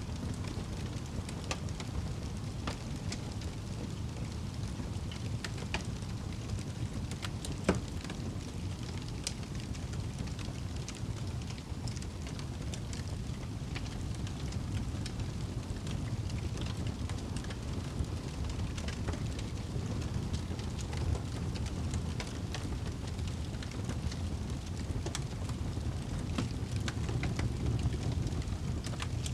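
Wood fire burning in a fireplace: a steady low rumble of the flames with scattered crackles and pops, one sharp pop about eight seconds in.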